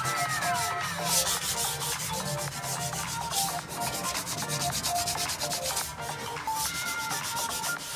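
Sanding a surface to prepare it for repainting, a continuous scratchy rubbing that swells louder several times, with background music playing over it.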